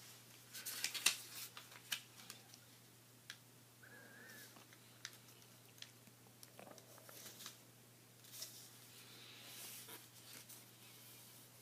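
Sheet of paper being folded by hand: faint intermittent rustling and short crisp crackles as the edges are brought over and the creases pressed, over a steady low hum.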